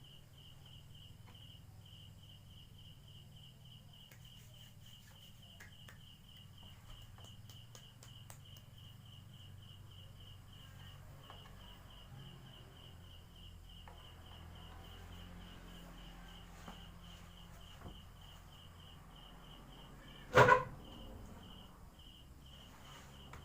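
Crickets chirping steadily in a high, even pulse of about four chirps a second. Near the end comes a single sudden loud knock or bang with a short ring-off, a sound that is taken for something being shifted or moved.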